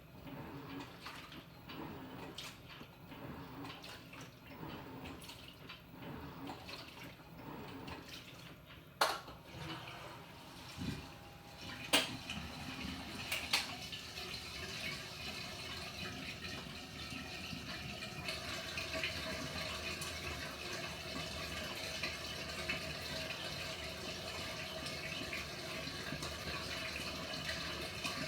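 Panasonic NA-FA100H9 top-loading washing machine: a few sharp clicks, then water pouring steadily into the tub, building from about halfway through.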